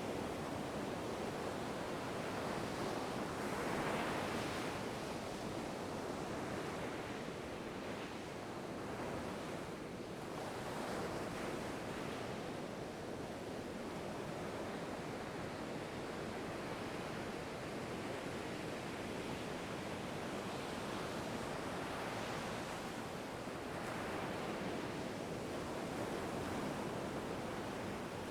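Ocean surf: a continuous rush of waves breaking and washing in, swelling and easing every several seconds, with the strongest surge about four seconds in.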